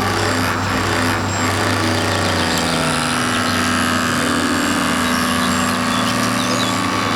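An engine or motor running steadily, its pitch dipping briefly about three seconds in.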